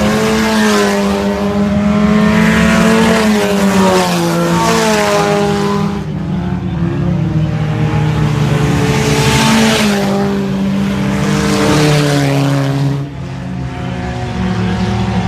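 IMCA Sport Compact race cars' four-cylinder engines running at speed on the track, with engine pitch rising and falling as several cars pass in turn.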